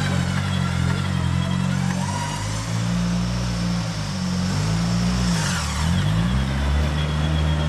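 Off-road 4x4's engine running hard under load, its pitch dipping and climbing again about five to six seconds in.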